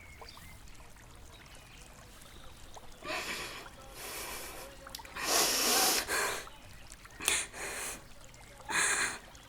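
A person crying with a run of breathy, sniffling gasps, about five in a row, the longest and loudest about halfway through.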